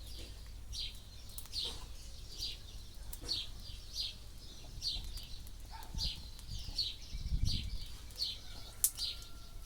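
A bird calling with short, high chirps repeated evenly about once every 0.8 seconds. A low rumble comes in briefly around seven seconds in.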